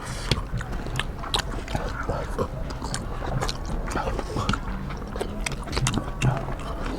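People chewing and eating rice and curry, with many short, irregular mouth and lip clicks.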